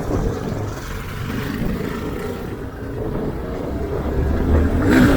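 Motorcycle engine running under way, growing louder over the last couple of seconds, with a short sharp knock just before the end.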